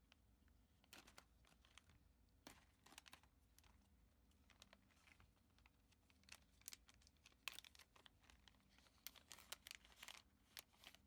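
Faint, irregular ticks and scratches of a gel pen writing on paper, in short clusters with pauses between.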